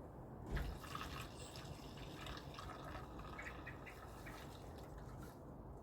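Kerosene being poured into a diesel heater's fuel tank: a faint trickle of liquid with small drips and splashes as the tank fills to the top.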